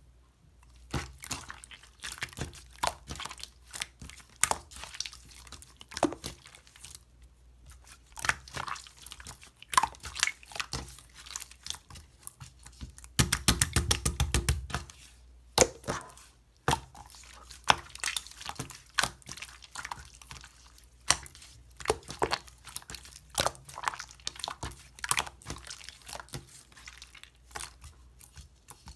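Clear slime being squished and pressed by hand, making sharp clicking pops and crackles, with a quick run of rapid pops about halfway through.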